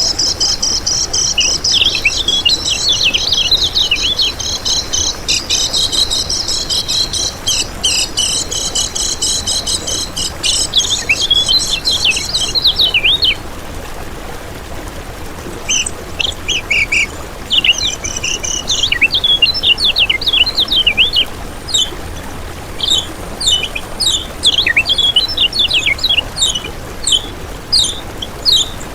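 Kecial kuning songbird singing: fast high chirps and twitters over a dense trill for the first half. The song breaks off for about two seconds halfway through, then goes on in short, separate chirp phrases.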